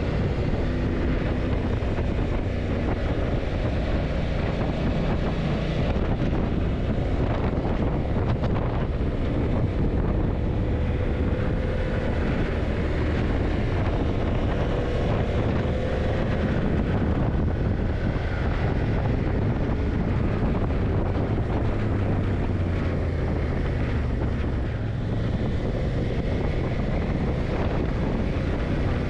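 Yamaha TDM900's parallel-twin engine running steadily at road speed, with heavy wind noise on the microphone.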